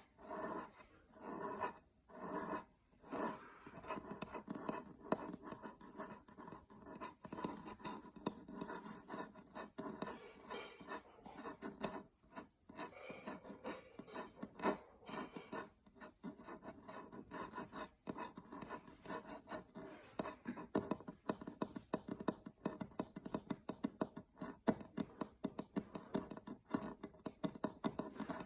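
Fingernails scratching a surface in quick, uneven strokes, with many small clicks among them.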